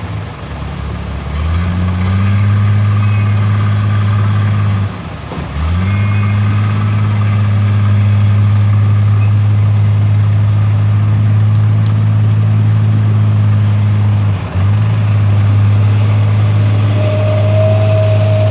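Dump truck's diesel engine running at steady revs. The engine sags and picks back up twice. A thin higher whine joins near the end.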